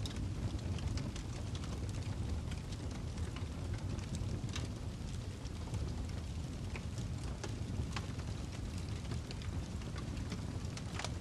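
Wood fire burning in a fireplace: a steady low rumble with frequent sharp crackles and pops at irregular intervals, a few of them louder than the rest.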